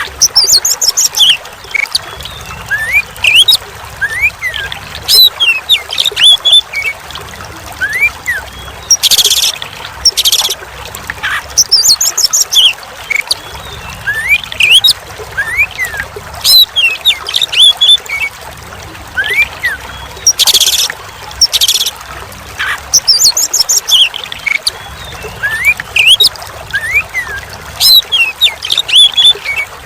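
Oriental magpie-robin (kacer) singing: quick whistled notes sliding up and down, mixed with short harsh rasping bursts, over a steady sound of trickling, pouring water. The phrases seem to repeat about every eleven seconds, as in a looped training recording.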